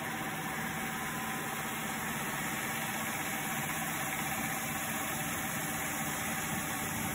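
ILIFE W90 wet-dry floor cleaner running its self-cleaning cycle in the charging base: a steady, even motor hum that is pretty quiet.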